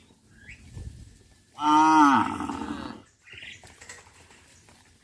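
A cow mooing once, a single call of about a second and a half beginning near the middle, its pitch rising slightly and then falling.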